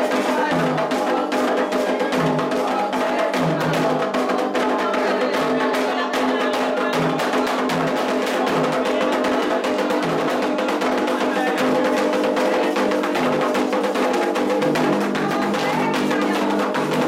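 Candomblé ritual drumming on atabaque hand drums, the rum lead drum playing over a steady rhythm of sharp strokes, with voices singing a held chant over it.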